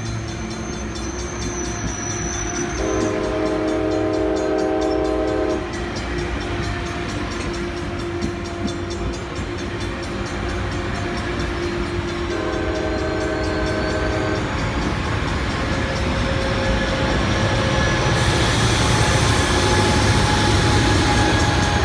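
ACE commuter test train approaching and passing, its horn sounding two chord blasts about ten seconds apart, the first about three seconds long and the second shorter. Beneath the horn, locomotive engine and wheel rumble grows louder toward the end.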